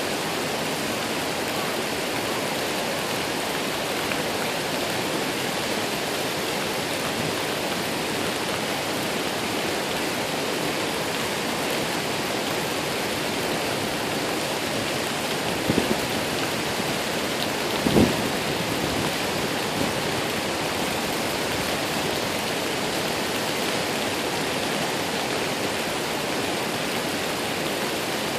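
Waterfall rushing steadily, with two brief knocks a little past halfway.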